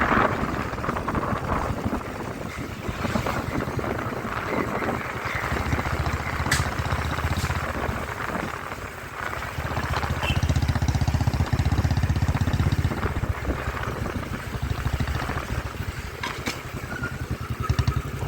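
Motorcycle engine running under way, a steady low rumble that swells for a few seconds partway through.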